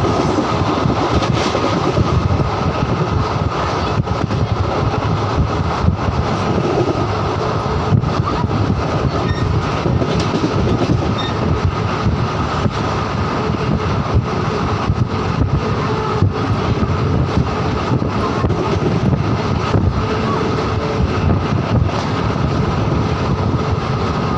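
Moving train running steadily: a continuous rumble and rattle with frequent short sharp clicks, unchanging in level throughout.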